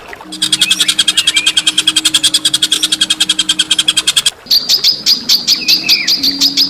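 Songbird calls from a song-tutor (masteran) recording: a fast rattling series of sharp, high notes, about ten a second, that breaks off about four seconds in and gives way to a different run of piercing chips. A steady low hum runs underneath.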